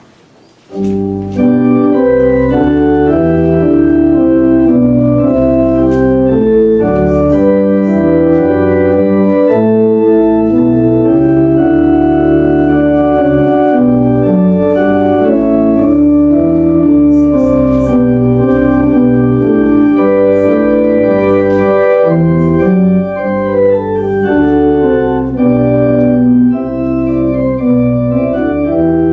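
Church organ starts playing the announced hymn about a second in, full chords moving over a held bass line.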